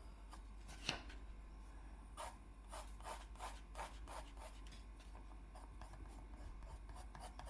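Faint strokes of a drawing tool scratching across paper as lines are drawn. There is a sharp tap about a second in, then a run of about six quick strokes, then lighter, evenly spaced strokes.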